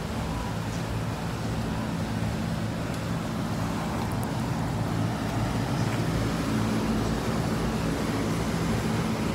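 Cadillac ATS idling, a steady low hum that grows slightly louder about halfway through.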